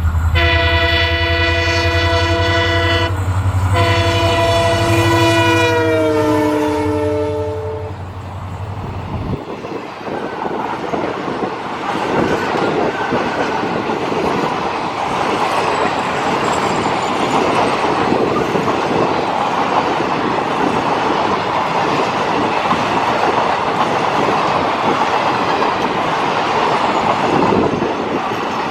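WDP4 diesel locomotive passing at speed with its multi-tone air horn sounding, a long blast with a brief break about three seconds in. The horn chord then slides down in pitch as the locomotive goes by and stops about eight seconds in, together with the engine's deep rumble. Its train of ICF coaches then rolls past with a steady clatter of wheels over the rail joints.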